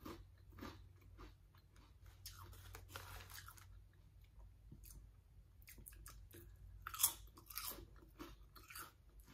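A person chewing and crunching ketchup-flavoured potato chips close to the microphone, in short crunchy clusters, the loudest about 7 seconds in.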